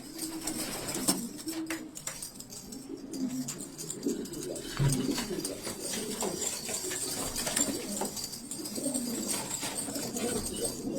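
Domestic pigeons cooing, several birds overlapping in a steady run of low rising-and-falling coos, with scattered light clicks.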